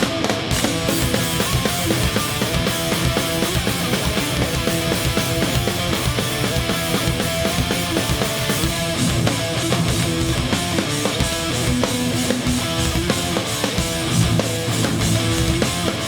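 Hardcore punk band playing live: distorted electric guitars with drums in an instrumental stretch without vocals, the drums coming in about half a second in.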